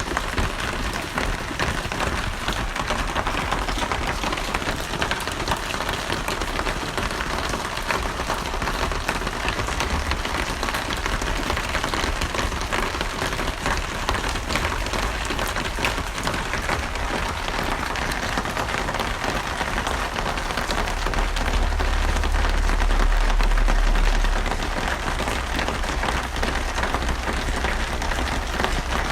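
Steady heavy rain falling on a surface, a dense patter of drops. A low rumble swells for about three seconds near the end.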